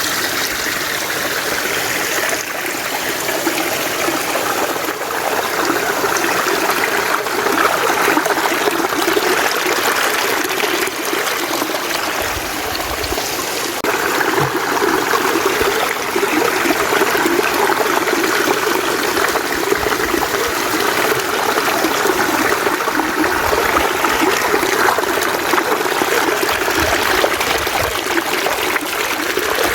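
Mountain stream running steadily, a continuous even rush of flowing water.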